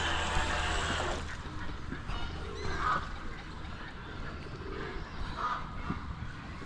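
Waterfowl calling: two short calls a few seconds apart, over outdoor background noise. A steady motor hum fades out about a second in.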